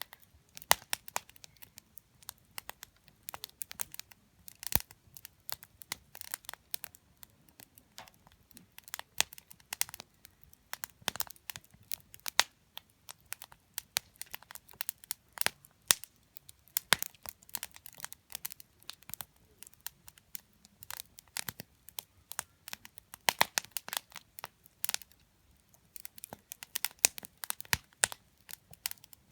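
Wood campfire crackling: irregular sharp pops and snaps of burning wood, coming in quick clusters with a few louder snaps among them.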